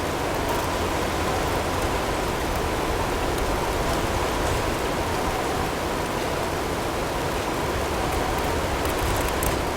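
Steady blizzard wind noise with a few faint ticks of hail, most of them near the end, and a faint steady tone underneath.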